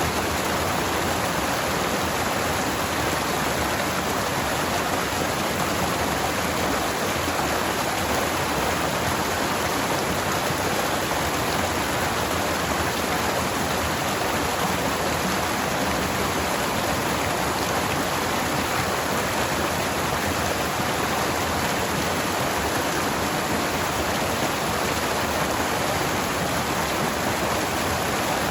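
Forest stream water rushing steadily over rocks, a constant even noise.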